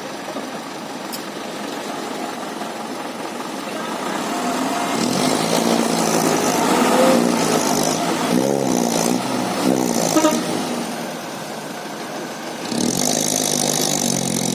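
Vehicle engine running, revving harder for several seconds in the middle with its pitch rising and falling, then settling back. Near the end comes a burst of hiss about two seconds long.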